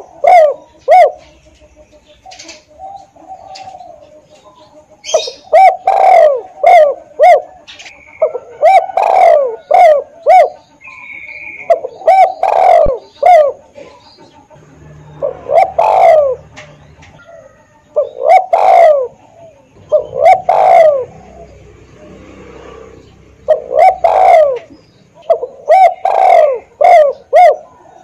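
Spotted dove (tekukur) cooing: phrases of several low, rhythmic coos repeated every two to three seconds, with a few brief higher chirps in between.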